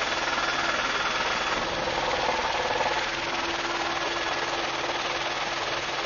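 Aircraft engine running with a steady, even drone, heard from inside the cabin.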